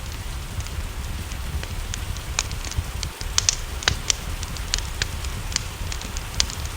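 Wood fire crackling, sharp irregular pops and snaps over a steady low rumble, mixed with a hiss of rain.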